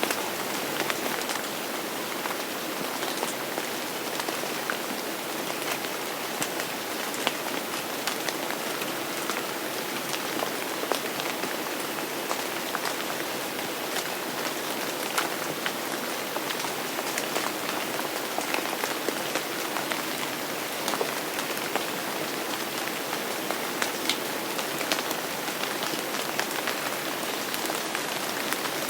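Steady rain falling, with many individual drops striking close by as sharp little taps through the even hiss.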